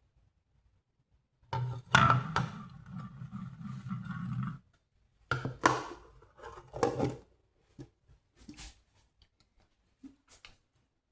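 Metal cooking pots and lids being handled on the stove while greens and pinto beans cook: a long scraping clatter with a steady ringing tone about a second and a half in, a shorter burst of clanks, then a few light clicks.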